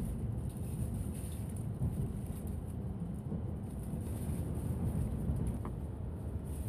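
Steady low rumble of a Tohoku Shinkansen train running, heard inside the passenger car as it pulls out of Tokyo Station.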